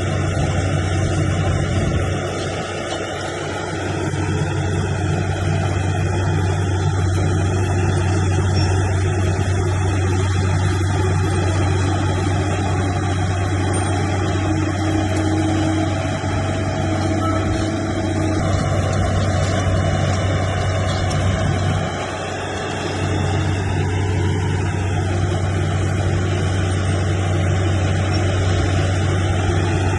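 Heavy diesel engine of earthmoving machinery running steadily, with a strong low hum and two brief drops in level, about two seconds in and again around twenty-two seconds.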